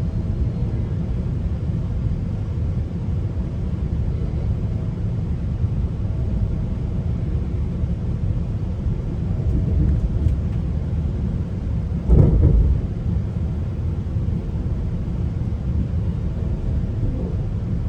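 Steady low rumble of a GO Transit passenger train running on the rails, heard from inside a coach, with a single heavy thump about two-thirds of the way through.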